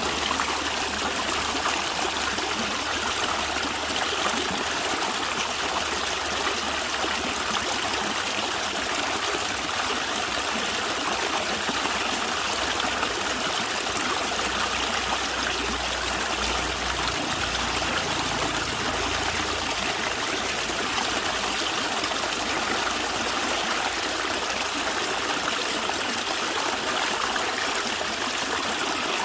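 Natural stream water gurgling and trickling steadily.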